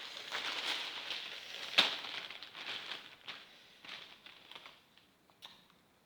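Plastic bag of krupuk crackers crinkling and rustling as it is handled, with small crackles and one sharp crack about two seconds in. The rustling thins out and fades over the last couple of seconds.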